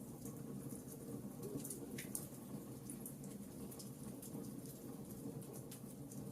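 Wood fire burning in a fireplace: a soft low rumble under irregular sharp crackles and pops, one slightly stronger pop about two seconds in.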